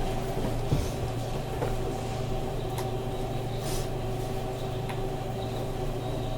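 Steady interior noise inside a Seibu 30000 series electric train car: an even hum that holds one pitch, with a few faint light clicks.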